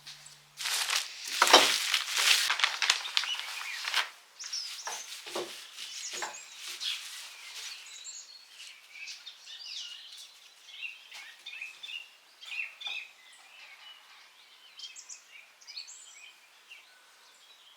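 Loud rustling and scraping handling noises for the first few seconds, then small birds chirping on and off.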